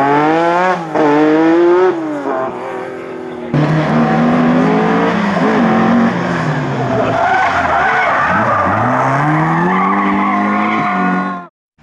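Rally car engines revving hard, the pitch climbing and dropping with each gear change and lift-off, with tyres squealing and skidding. The sound changes abruptly about three and a half seconds in, to another car, and cuts off suddenly near the end.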